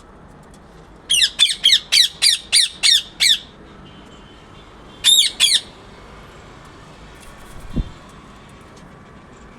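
A parrot squawking: a quick run of about eight short, loud, high-pitched calls, then a pair more a couple of seconds later. A short low thump near the end.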